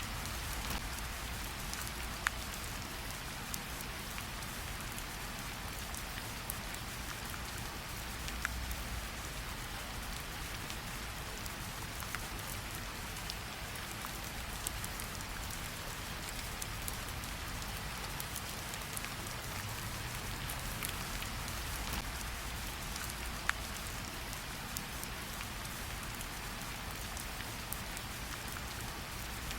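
Steady rain falling in a tropical forest, an even hiss with scattered sharper ticks of single drops.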